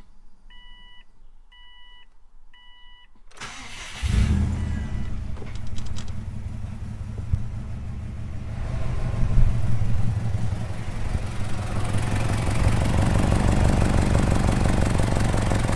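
A warning chime beeps four times, then a 2005 Subaru WRX STI's turbocharged flat-four is cranked and catches about four seconds in. It runs loud and is revved briefly about halfway through. The exhaust sounds very farty from a leaking gasket on the aftermarket Invidia N1 exhaust.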